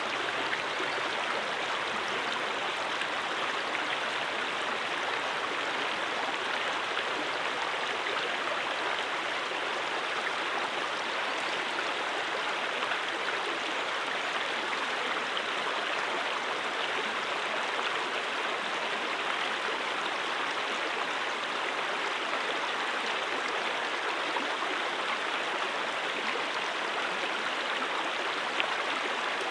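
Stream water flowing, a steady, unbroken rush with no change.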